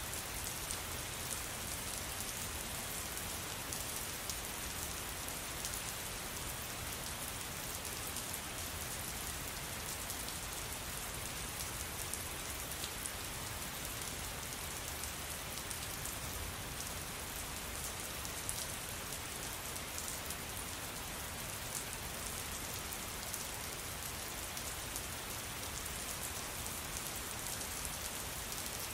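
Steady rainfall: an even hiss of rain with dense, fine patter of drops hitting a surface.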